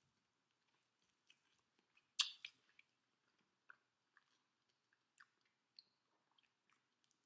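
Faint chewing of fried chicken, with scattered small clicks and crunches, the loudest a little over two seconds in.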